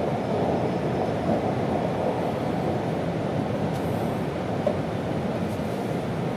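Steady running noise inside a passenger car of an E2 series Shinkansen train in motion: an even rushing hum with no distinct clicks.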